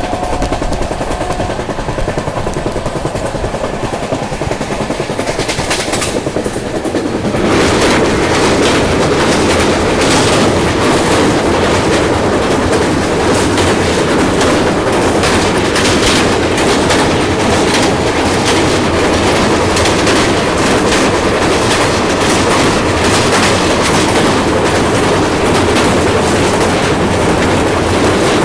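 Express passenger train running on the rails: a steady rumble with the clickety-clack of wheels over rail joints. About seven seconds in it suddenly becomes louder and brighter, with a rapid clatter that carries on to the end.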